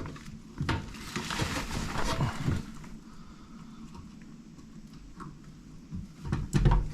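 Hands working low-voltage wire leads back onto a heat-kit contactor inside an air handler: irregular clicks, rustling and knocks, with a louder cluster of knocks near the end.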